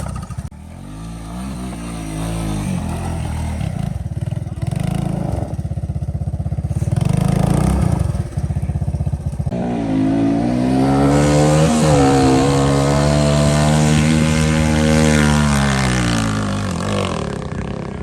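Dirt bike engine running and revving as the bike is ridden, changing pitch with the throttle. It is loudest from about ten seconds in, where the pitch climbs and then sinks away near the end.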